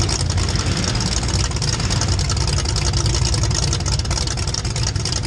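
Race vehicle engine running hard and steadily, with a deep rumble under a rough, hissing top end.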